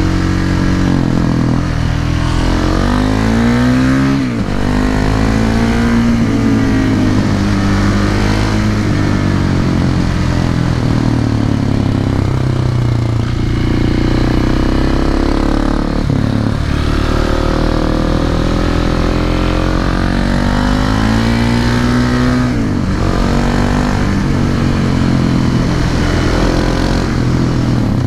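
Husqvarna 701 Supermoto's single-cylinder engine through an SC-Project slip-on silencer, accelerating hard. The revs climb and then drop suddenly several times as it shifts up or rolls off the throttle.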